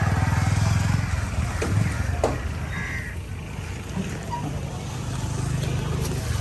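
A small engine running nearby, louder at the start and again from about five seconds in, with a few short knocks over it.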